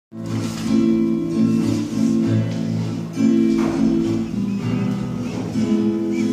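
Instrumental music played on a plucked string instrument, with sustained notes, starting abruptly at the very beginning.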